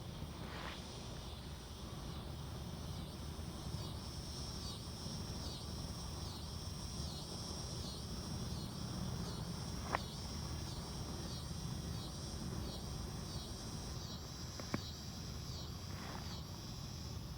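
An insect calling in the woods, a high pulsing chirp repeated evenly a little under twice a second, over a steady low rush of wind. Two sharp clicks stand out, about ten and fifteen seconds in.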